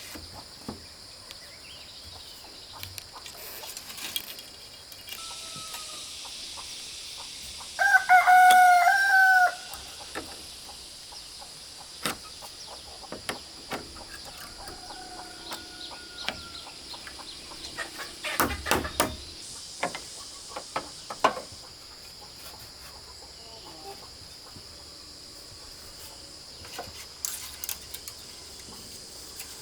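A rooster crows loudly once about eight seconds in, with fainter crowing from farther off before and after it. A few sharp knocks come a little after the middle, over a steady high-pitched buzz.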